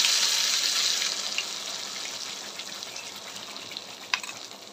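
Carrot paste sizzling in hot ghee in a nonstick pan: a loud hiss that dies down steadily over a few seconds, with a light click near the end.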